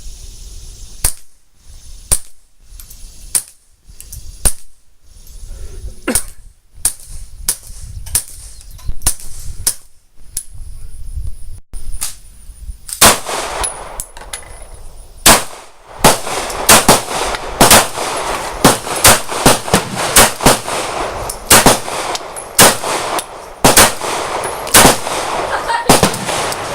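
Gunshots fired one at a time, about one a second at first and coming faster and more irregularly from about halfway through. A steady rushing noise lies underneath in the second half.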